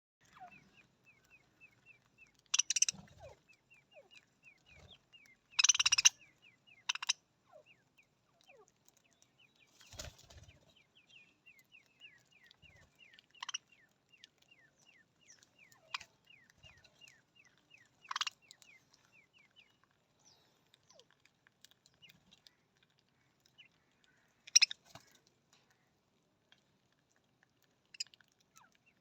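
Budgerigars chirping, with sharp loud squawks every few seconds over a fast, even run of short high notes at about four a second; the run stops about two-thirds of the way through.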